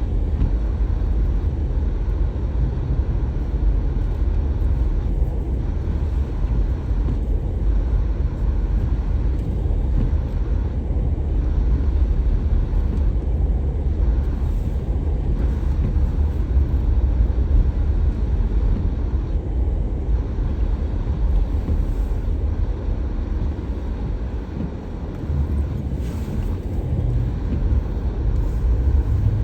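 A car driving through snow: a steady low rumble of engine and tyres on the road, easing slightly for a moment near the end.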